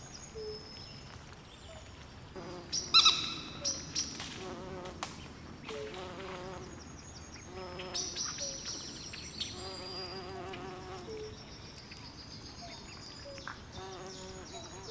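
Swamp night chorus of frogs and insects: repeated trilling frog calls, with short high chirps all through and one loud, sharp call about three seconds in.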